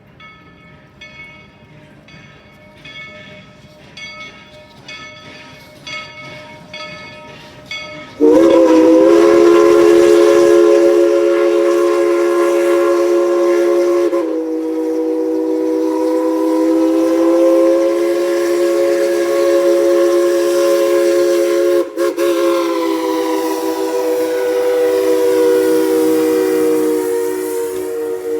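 Steam locomotive's bell ringing about once a second and growing louder, then its chime whistle sounding a long blast of several tones together from about eight seconds in, briefly broken near the end.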